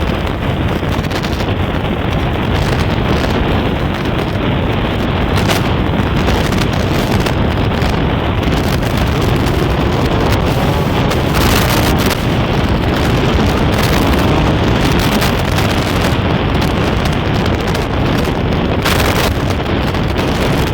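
Steady wind rush on the microphone of a Honda SP125 motorcycle riding at speed, with its engine running underneath.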